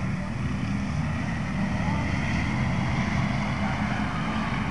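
Pro street class race car engines running together in a steady drone.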